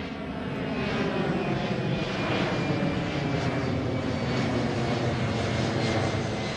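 Boeing 737 airliner's jet engines running, a steady rumble with hiss that swells during the first second.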